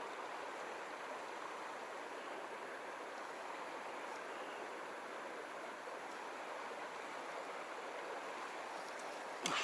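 Steady rush of a flowing mountain stream. A brief sharp click-like sound comes near the end.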